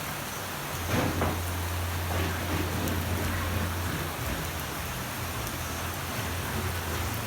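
Steady rain falling on surfaces, with two louder taps about a second in. A low steady hum comes in under the rain about a second in and holds.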